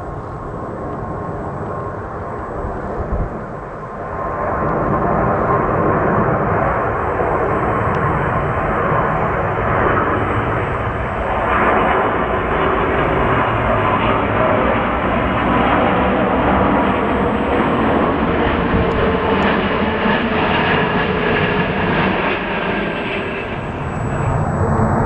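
Jet engines of a landing twin-engine airliner passing close by. The noise builds about four seconds in and then holds loud, a rushing roar with steady whining tones through it.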